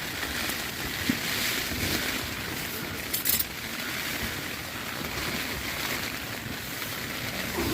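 Heavy rain falling steadily. A brief sharp rustle cuts in about three seconds in.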